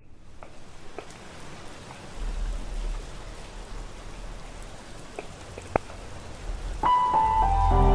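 Steady rain with a few separate drops ticking, and music starting near the end.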